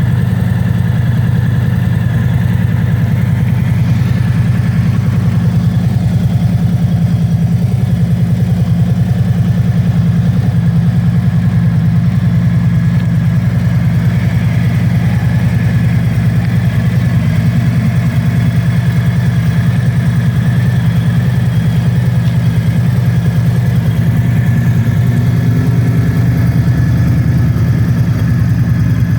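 Harley-Davidson FLRT Freewheeler trike's 1745 cc Milwaukee-Eight 107 V-twin idling steadily, with a fast, even pulse.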